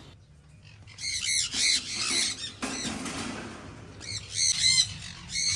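Young sun conures squawking, a run of quick repeated shrill calls starting about a second in, with a brief rustle in the middle.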